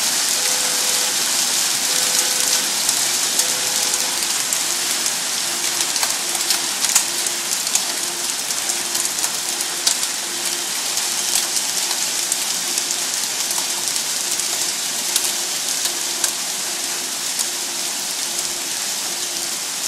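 Hailstones and rain pelting down in a heavy storm: a dense steady hiss with many sharp clicks of individual stones striking hard surfaces. A faint electronic beep repeats behind it, slow and higher at first, then lower and twice as fast from about four seconds in.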